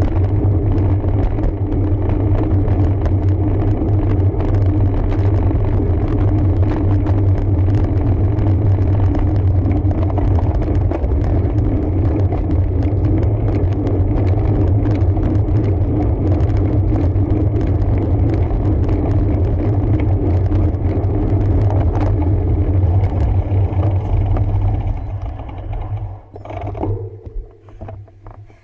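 ANCHOR RFX8 road bike riding over a forest road: a steady low rumble of road and tyre vibration with constant light rattling. About 25 seconds in it dies away as the bike comes to a stop, leaving a few brief knocks.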